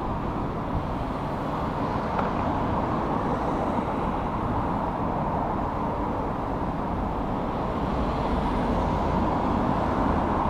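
Steady noise of motor traffic passing on a busy dual-carriageway ring road.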